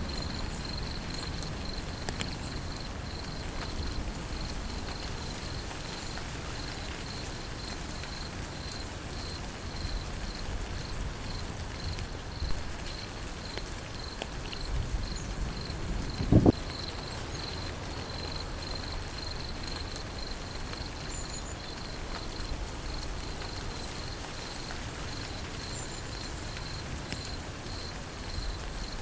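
Steady rain falling, with an insect chirping in an even, rapid pulse throughout. One short, loud thump comes a little past halfway.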